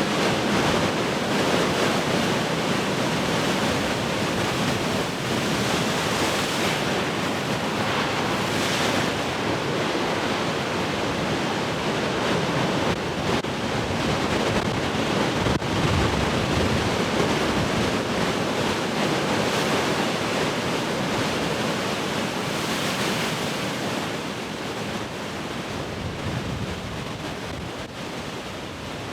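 Heavy ocean surf: large waves breaking and washing up continuously, with wind buffeting the microphone. The wash swells twice, about a third of the way in and again near three quarters, and eases off toward the end.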